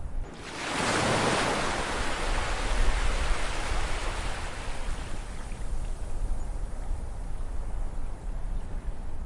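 Ocean waves: one wave surges in about half a second in and slowly fades over the next several seconds, over a steady low rumble of surf.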